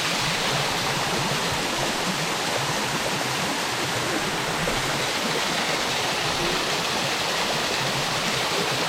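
Steady rush of a small waterfall, water falling and splashing onto rocks and into the pool.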